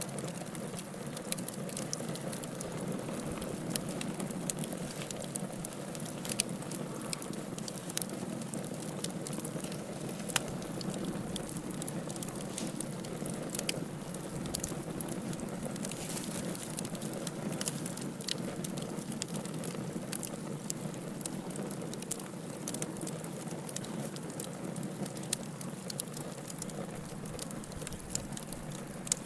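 Wood fire in a fireplace crackling, with a steady low rush of flame and many small irregular pops and snaps.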